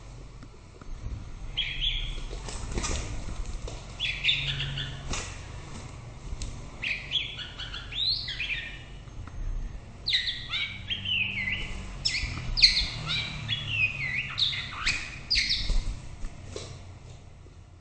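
White-rumped shama singing in bursts of quick, varied whistled phrases that glide up and down, densest in the second half, with a few sharp clicks between phrases.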